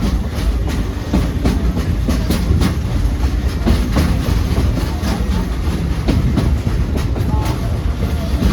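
A train's cars rolling along the track, heard from on board: a steady low rumble with a run of wheel clicks over the rail joints.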